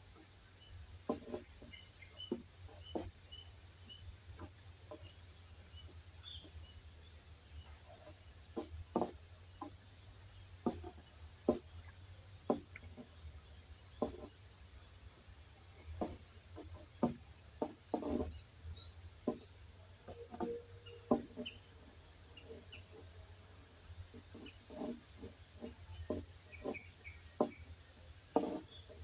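Forest ambience: irregular soft taps and rustles every second or so, over a steady high insect-like hiss, with faint, scattered short bird chirps.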